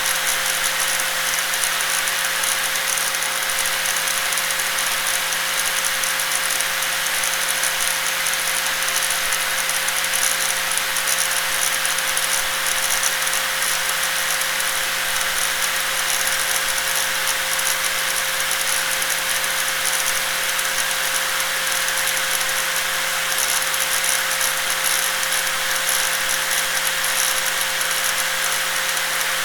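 Electric angle grinder running steadily, an unbroken whine at one constant pitch over a high hiss.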